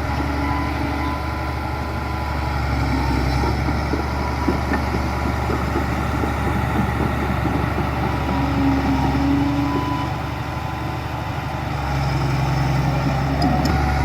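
Heavy diesel engine of earthmoving machinery running steadily, easing off slightly about ten seconds in and picking up again near the end.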